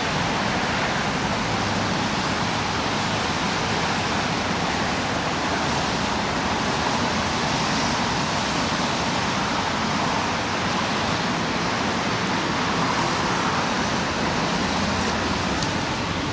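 Steady city road traffic noise: a continuous hiss of car tyres and engines passing by, with no single vehicle standing out.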